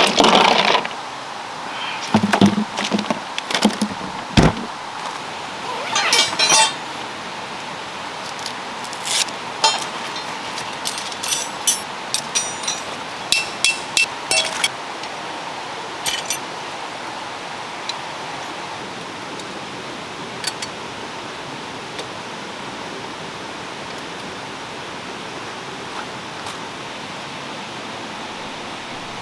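Steady rushing water noise, with scattered metal clinks and knocks through the first half from tent poles and pegs being handled while a tent is pitched.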